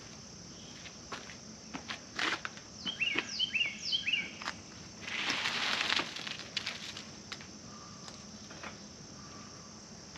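Steady high insect buzz, with a bird giving a quick run of short chirps about three seconds in. Scattered clicks and knocks and a brief rustle around the middle come from hands working on the net's frame.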